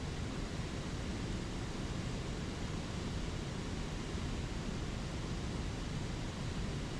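Spring creek water rushing over small waterfalls: a steady, unchanging rush.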